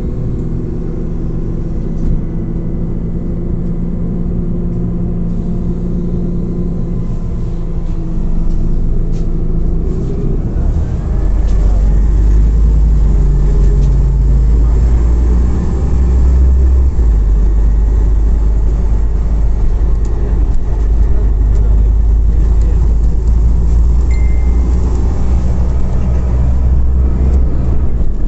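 Scania OmniCity CNG city bus heard from inside the passenger cabin: its natural-gas engine runs quietly at first, then the bus picks up speed about ten seconds in and settles into a steady low drone with road noise.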